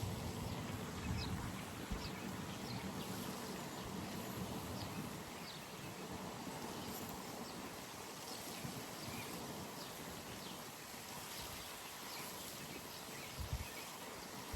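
Outdoor pond ambience: a steady background hiss with many short, high chirps scattered throughout, and a few brief low thumps about a second in and again near the end.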